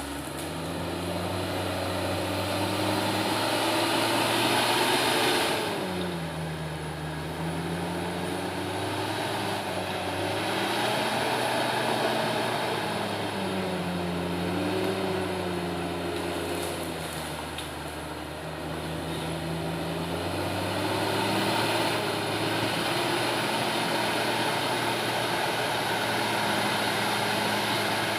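Komatsu D68ESS bulldozer's diesel engine working hard, its pitch dipping and rising again several times as the revs change under load.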